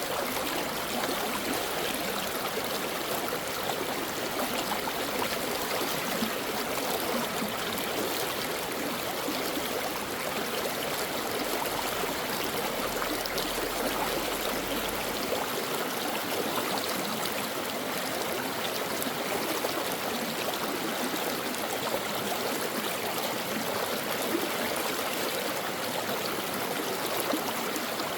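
Shallow stream of water running and babbling over rocks: a steady, unbroken rush with fine splashing and gurgling.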